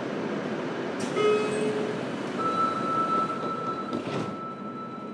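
Onboard running sound of a JR Kyushu 303 series electric train, heard inside the motor car: a steady rumble of wheels and running gear. About a second in there is a sharp click with a brief pitched tone, and from about two and a half seconds a steady high whine sounds and slowly fades as the sound eases off.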